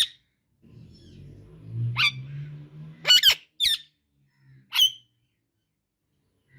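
Indian ringneck parakeet giving about six short, shrill squawks, two of them in quick succession about three seconds in. A low rumble runs beneath the first few calls.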